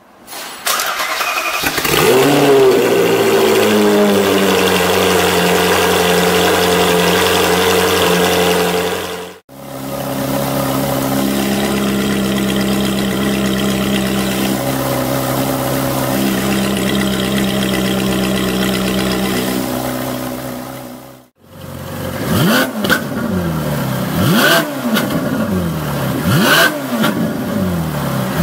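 Ferrari 458 Italia's flat-plane V8 through an Fi Exhaust valved system starting, then settling to a steady idle. It idles on with a tone that changes twice as the exhaust valves are switched by remote. Near the end it is blipped in short revs about every two seconds with the exhaust valves closed.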